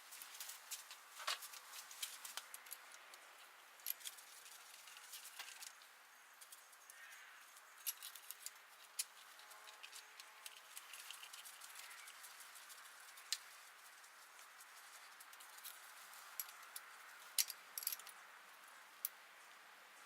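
Scattered light clicks and taps of tools and small metal parts being handled, over a faint hiss.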